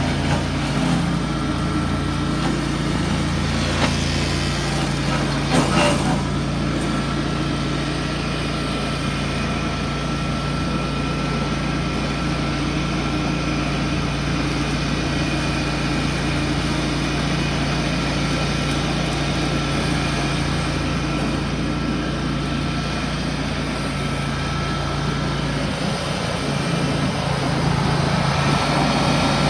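Ventrac 4500Z compact tractor's engine running steadily with the shredder attachment, with a few sharp cracks about four and six seconds in. The engine note changes near the end.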